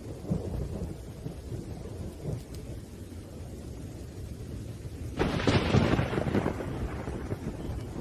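Thunderstorm: low rolling thunder under steady rain, then about five seconds in a louder thunderclap cracks and rumbles off.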